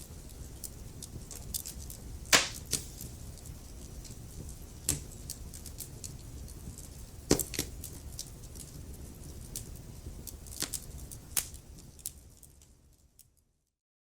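Wood fire crackling over a soft low rumble, with scattered sharp pops, the loudest about two seconds in and again about seven seconds in. Near the end the fire sound fades out to silence.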